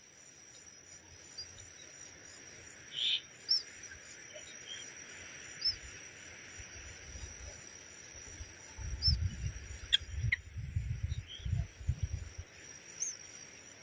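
Small birds giving short, high chirps every few seconds over a steady, high insect drone. A stretch of low rumbling thumps comes past the middle.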